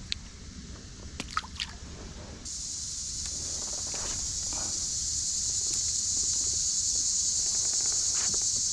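A few sharp clicks and drips of water, then about two and a half seconds in a steady, high-pitched insect chorus comes in abruptly and slowly grows louder.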